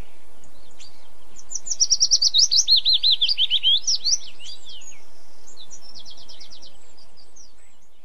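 A small songbird singing a fast trill of high, falling whistled notes for a couple of seconds, then a shorter rapid series of notes a moment later, over a steady background hiss that fades out near the end.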